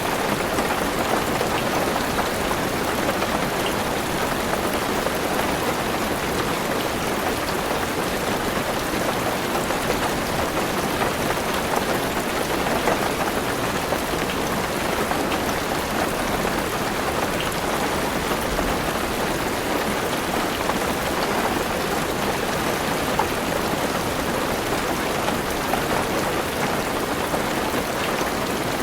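Steady heavy rain on a car's roof and windows, with scattered individual drops ticking through the even hiss.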